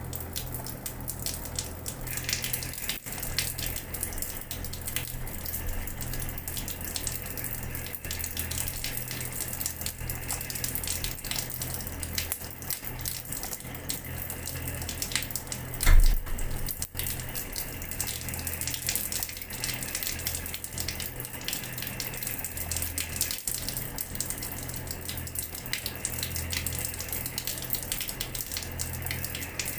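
Water running from a tap and splashing steadily onto a hard floor, full of fine droplet patter, over a steady low hum. A single loud thump about halfway through.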